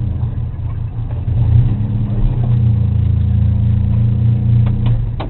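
Racing sports car engine running hard with a steady drone, easing briefly about a second in and then pulling again. It drops off just before the end with a sharp click.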